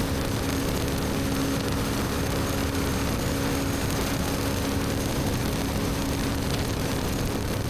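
BMW R1250GS Adventure's 1254 cc boxer twin running through an Akrapovic slip-on exhaust at a steady cruise, its note holding one pitch, under a constant rush of wind and road noise.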